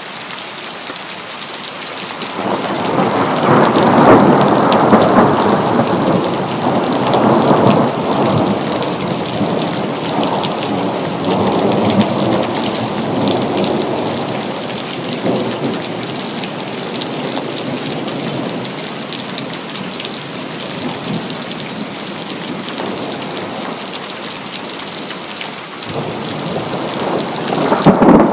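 Steady rain falling on city surfaces, with a long roll of thunder that swells about two seconds in, peaks soon after, and rumbles away slowly, and another roll beginning at the very end.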